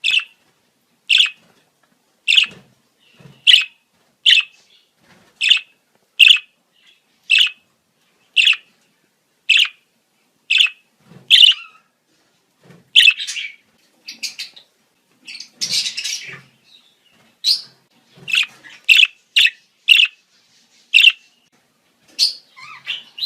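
Budgerigars chirping in breeding season: short sharp calls repeated about once a second, with a longer burst of scratchy chatter about two-thirds of the way through.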